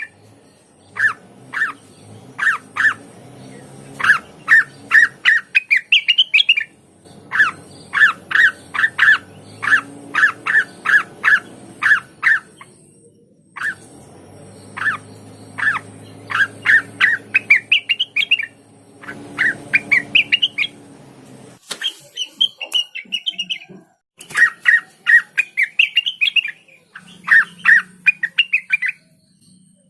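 Cucak wilis leafbird singing loud phrases of rapid, repeated sharp chirps, some rising in pitch, a few seconds at a time with short pauses between.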